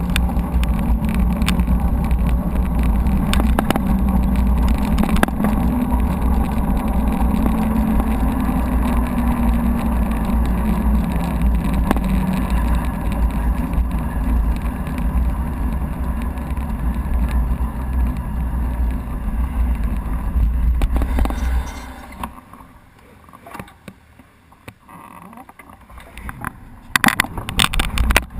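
Mountain bike ride heard from an on-bike camera: a steady deep wind rumble on the microphone with tyre and trail noise. Near the end it drops to a quieter stretch for a few seconds, then picks up again with a few sharp knocks.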